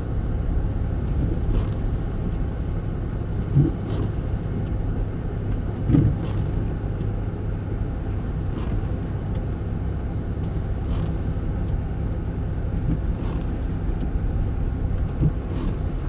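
Steady low rumble of a car driving, with a faint click repeating about every two and a half seconds and two duller thumps about four and six seconds in.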